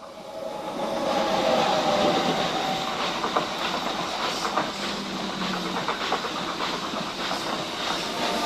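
Renfe train passing along the track: the rush of its wheels on the rails swells over the first second, then stays loud, with many sharp clicks from the wheels crossing rail joints and a steady whine beneath.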